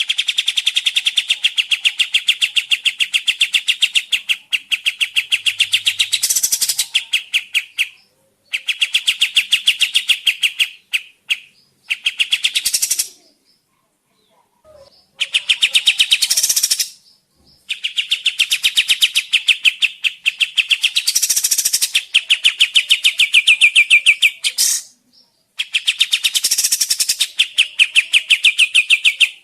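Kapas tembak bird singing: loud, rapid trilled chattering in long phrases of several seconds each, separated by brief pauses.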